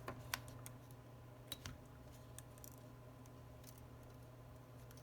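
A few faint, sharp clicks of small repair tools and tiny screws being handled, irregularly spaced, over a steady low hum.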